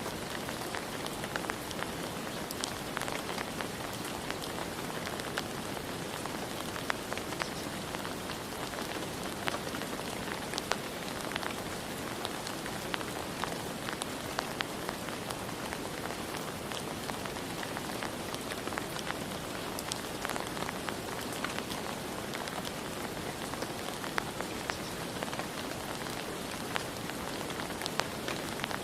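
Steady rain falling, with individual drops tapping sharply against a surface throughout.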